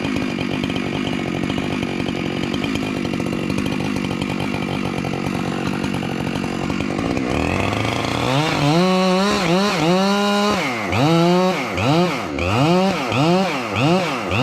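Chainsaw running steadily for about seven seconds, then revved up and down in quick repeated throttle blips that come faster toward the end.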